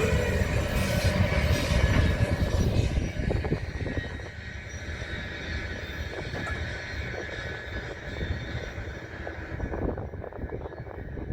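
Freight train rolling past: a loud rumble of cars and wheels with a light squeal in the first few seconds, then fading to a quieter rumble with scattered clicks.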